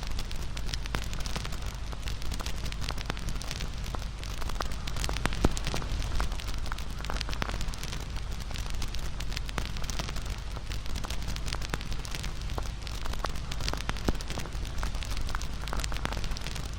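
Wood campfire crackling, with irregular snaps and pops over a steady low rumble; two sharper pops stand out, about five seconds in and near fourteen seconds.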